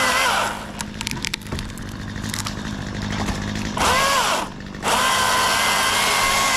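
Chainsaw cutting tree limbs, running at full speed, then let off and winding down about half a second in. A few sharp cracks follow while it runs slower, then it is throttled up again near 4 s, dips briefly, and runs steadily at speed from about 5 s on.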